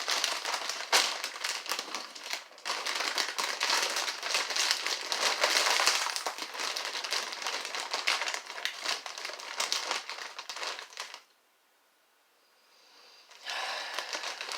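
A bag of EatSmart Veggie Crisps crinkling as it is torn open and handled, with a dense stretch of crackling. The crinkling stops for about two seconds and starts again near the end.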